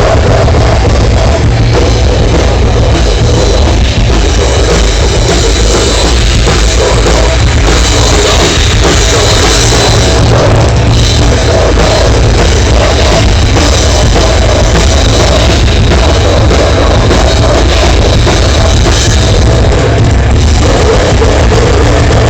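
Loud rock music with a full drum kit, heavy and distorted in character.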